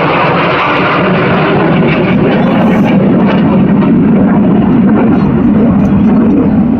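Loud, steady engine noise of an aircraft flying past at an airshow, its low part growing stronger about halfway through.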